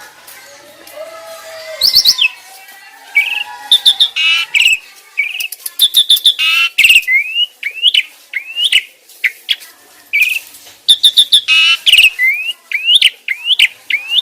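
Starling song from a jalak song-training recording: loud whistled notes, short rising slurred whistles and fast warbled trills mixed with sharp clicks, delivered in quick repeated phrases.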